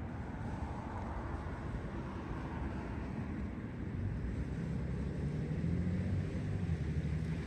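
A low motor hum that grows slightly louder from about halfway through, over a steady outdoor rumble.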